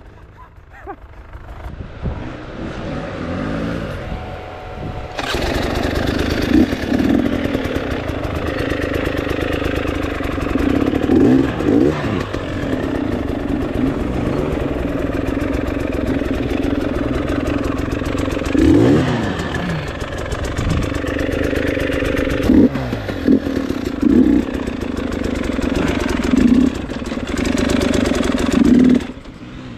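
Dirt bike engine, quieter with a few revs at first, then running loud and hard from about five seconds in, the revs rising and falling again and again as the bike works up a steep woods trail. It drops back just before the end.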